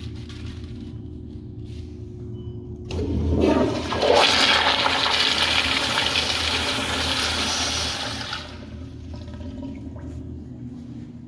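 Public restroom toilet flushing: a loud rush of water starts suddenly about three seconds in, runs for about five seconds and then dies away.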